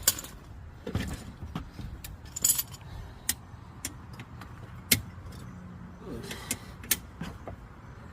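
Scattered sharp metallic clicks and taps from hand tools and pulling hardware being worked on a car's dented rear body panel, over a low steady hum.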